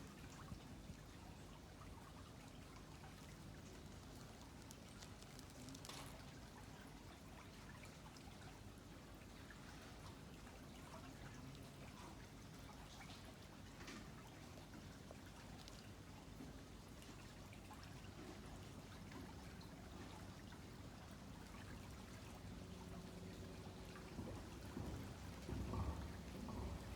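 Faint river water trickling and lapping, with a few scattered ticks. A low hum swells briefly near the end.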